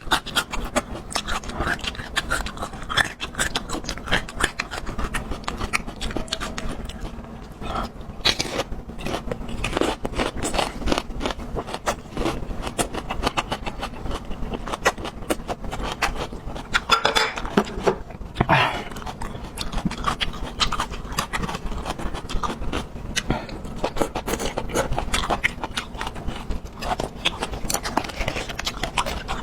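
Close-miked eating sounds: a person chewing raw garlic, with dense, irregular crunching and wet mouth clicks.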